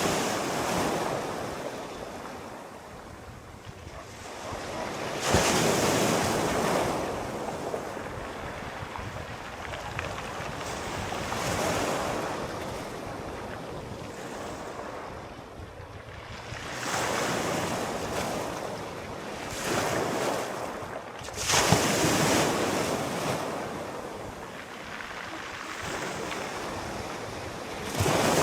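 Sea waves breaking and washing ashore in slow surges every few seconds, each swelling into a hiss and fading back, with a steady wash between them.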